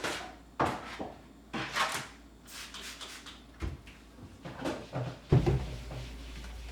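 Kitchen cupboard doors and drawers being opened and closed: a string of separate knocks and clatters, the loudest a dull thump about five seconds in.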